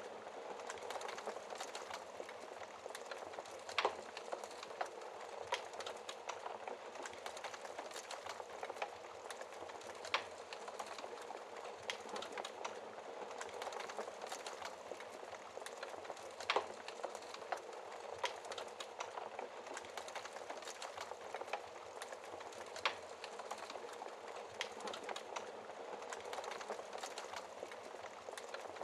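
Campfire burning with a steady soft crackle of small snaps, and a few louder sharp pops from the burning wood, about four in all.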